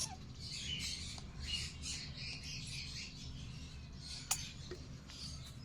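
Green-cheeked conure chick making repeated short calls while it is syringe-fed formula, the begging calls of a hand-fed chick. There is a sharp click a little after four seconds.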